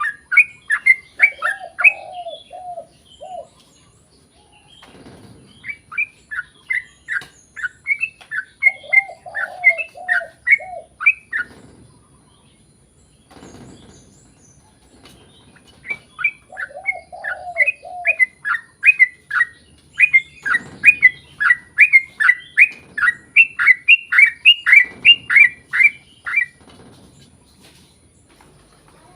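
Yellow-vented bulbul (trucukan) singing long runs of quick, sharp chattering notes, about three a second, in bursts of several seconds with short pauses between. A lower warbling phrase comes three times between the runs.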